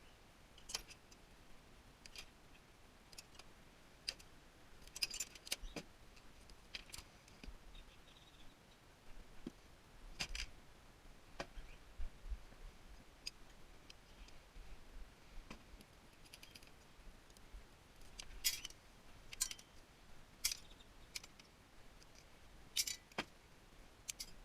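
Faint, irregular metallic clicks and clinks of hand tools and metal parts being handled while a tankless water heater is taken apart, some coming in quick clusters.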